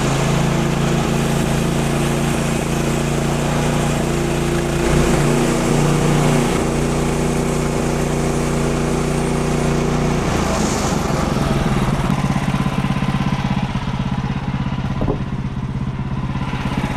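Woodland Mills HM130 Max portable bandsaw sawmill running at full throttle, its band blade sawing through a hard ash log. The blade is chattering in the hard wood. The sound changes about ten seconds in.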